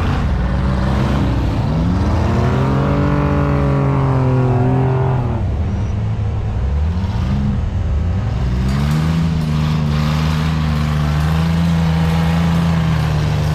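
Off-road race trucks' engines revving hard under full throttle while they climb a snowy hill. The pitch climbs a second or two in, drops around five seconds, then climbs again near eight seconds and holds steady.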